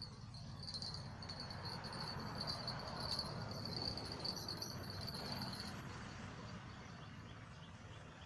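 Insects trilling steadily at a high pitch, fading out about six seconds in, over a soft rushing noise that swells in the middle.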